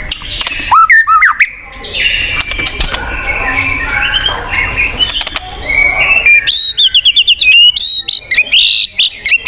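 White-rumped shama (murai batu) singing a loud, varied song. About a second in come upward-sweeping whistles, then a jumble of varied notes, and from about two-thirds of the way in a fast run of repeated rising sweeps.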